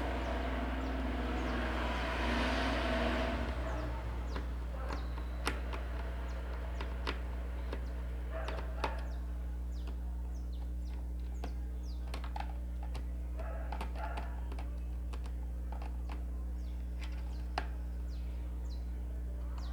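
Scattered small clicks and ticks of a screwdriver and screws working in a steam iron's plastic housing during reassembly, after a few seconds of rustling at the start, over a steady low electrical hum.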